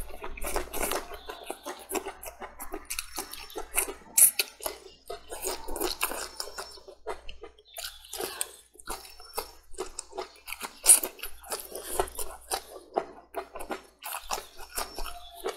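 Close-up chewing and biting of whole green and red chili peppers: wet mouth sounds with many irregular, crisp crunches.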